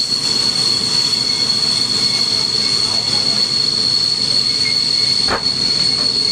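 Railway train running, with a steady high-pitched squeal over an even rolling rumble. A single sharp click comes about five seconds in.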